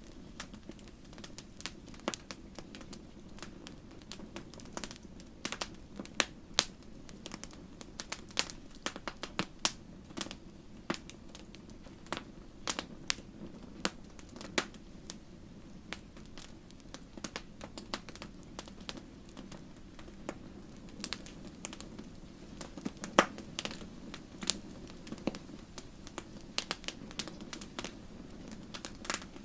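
Campfire crackling: burning wood snapping and popping in irregular sharp clicks, several a second, over a low steady rush of the flames, with a louder pop now and then.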